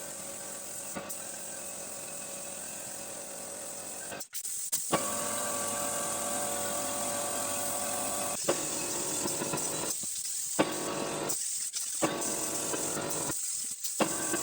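Compressed-air paint spray gun hissing steadily while an air compressor runs with a steady hum. The sound is broken by several abrupt cuts and gets louder after about five seconds.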